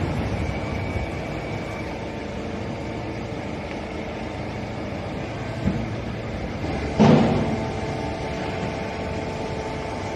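Full-automatic horizontal baler running: a steady machine hum with a small knock a little before a loud clunk about seven seconds in.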